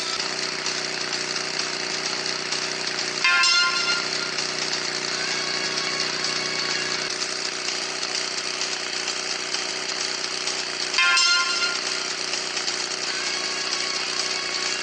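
Motorbike engine running steadily, with two short louder bursts, about three seconds in and about eleven seconds in.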